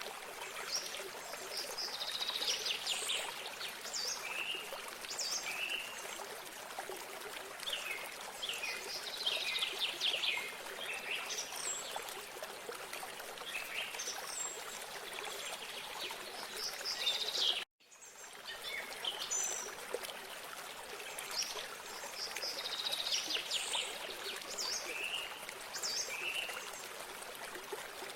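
Small songbirds chirping and trilling over steady running water, a stream or spring. The sound cuts out for an instant about two-thirds of the way through, then resumes.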